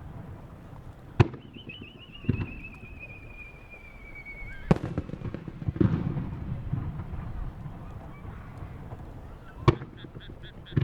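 Aerial firework shells (warimono split-type shells) bursting overhead: five sharp bangs, each with a short rumbling echo, spaced irregularly. A long wavering whistle falls slowly in pitch between the first bursts.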